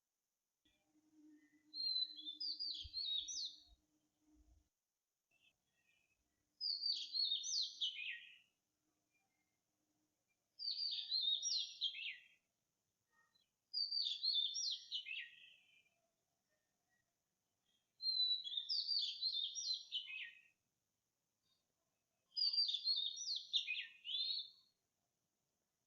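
A songbird singing six short, high phrases of fast, jumbled notes, about one every four seconds.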